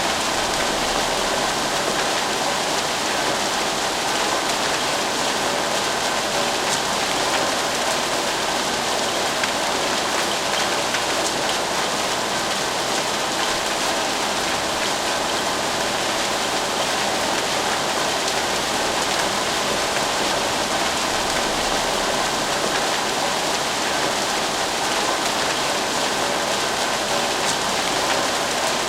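Steady rain: an even, unbroken hiss of many drops falling, with a few faint single-drop ticks.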